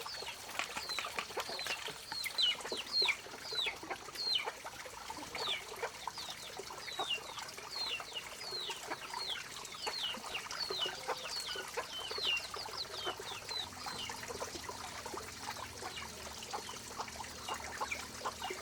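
Chickens calling: many short, high peeps that fall in pitch, about one or two a second, with scattered faint clicks.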